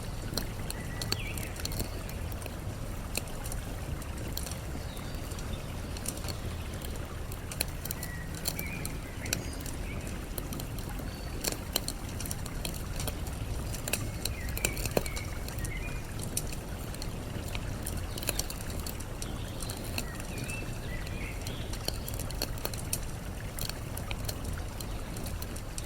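Campfire crackling with scattered sharp pops over a steady rush of flowing water, with short bird chirps now and then.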